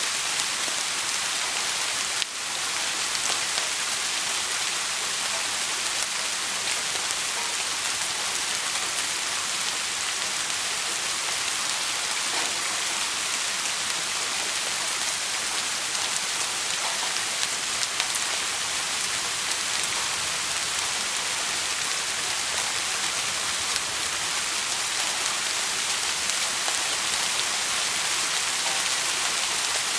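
Steady, dense rain pattering, an even hiss with a brief momentary dip in level about two seconds in.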